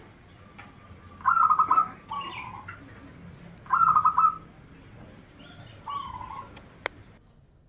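Zebra dove (perkutut) cooing: two phrases of its song, each a rapid stuttering trill of notes followed by a lower, drawn-out coo, about a second in and again about four seconds in. A single sharp click near the end.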